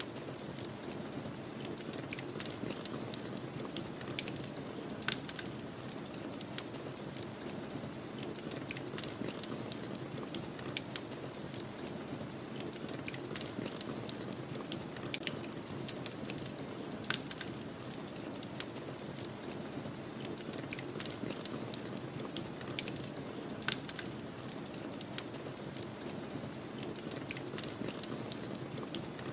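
Wood fire crackling, with irregular sharp pops and snaps throughout, over a steady low rushing of snowstorm wind.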